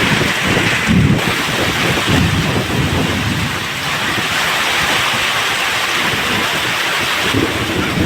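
Heavy rain pouring steadily, with strong gusting wind buffeting the microphone in irregular low rumbles.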